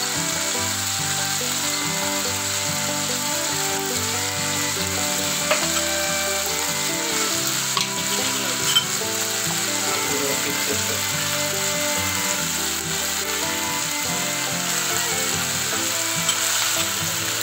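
Chopped onions frying in hot oil in a wok, sizzling steadily, with a few small clicks.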